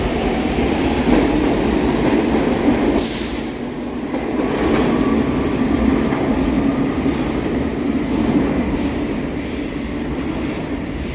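New York City subway train running on the rails with a continuous rumble. A faint whine rises in pitch near the start, and there is a brief high hiss about three seconds in.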